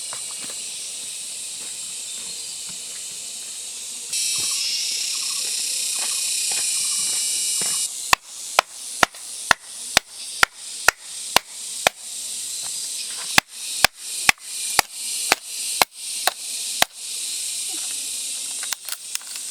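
Steady high-pitched drone of insects, then from about eight seconds in a run of sharp chopping strikes from a blade, about two a second, with a brief pause midway through.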